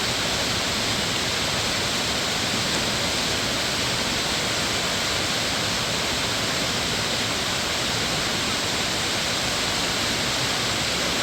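Steady, unbroken rush of water flowing and falling through a rocky mountain valley stream.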